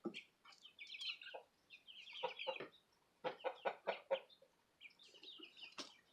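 Chickens clucking in short separate clucks, a quick run of them about three seconds in, with high thin peeps in between. The clucking is a young rooster clucking like a hen.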